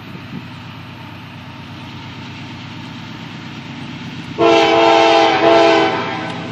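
CSX freight locomotive approaching with a steadily growing rumble, then sounding its air horn, a chord of several notes held for about a second and a half about four seconds in.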